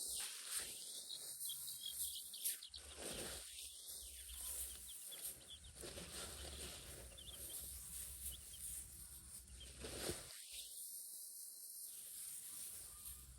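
Faint outdoor rural ambience: a steady insect hiss with a few small, high bird chirps scattered through it.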